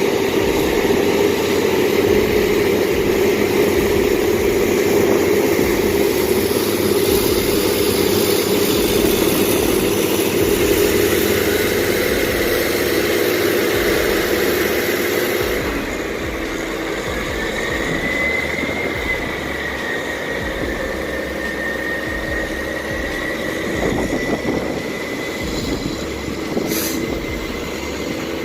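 Heavy diesel machinery engines running steadily under load. About halfway through the sound changes abruptly to a somewhat quieter engine with a thin, high whine wavering over it, and there is a single sharp click near the end.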